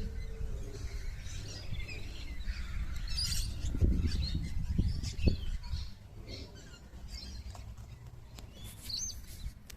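Small birds chirping in short, scattered calls, with a low rumble and a few thumps during the first half.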